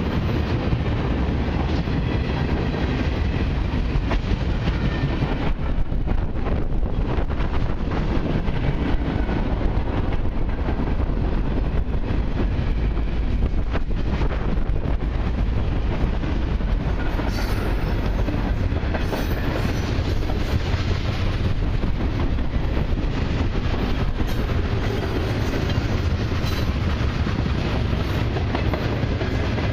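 Freight cars of a long mixed train rolling past: flatcars, boxcars and tank cars, their steel wheels running steadily on the rails.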